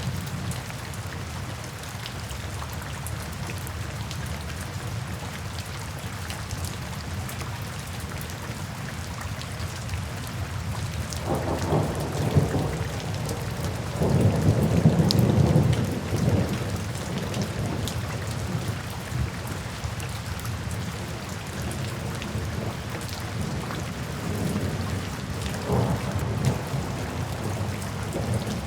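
Steady rain falling into puddles, with rolls of thunder: a longer rumble about halfway through, the loudest part, and a smaller one near the end.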